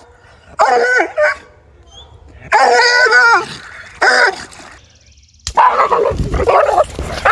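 A dog barking and whining in several bursts, the calls bending up and down in pitch.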